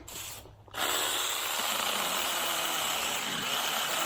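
Six-inch battery-powered mini chainsaw starting suddenly a little under a second in and running steadily, a hissing chain-and-motor noise, as it cuts a small Chinese tallow tree.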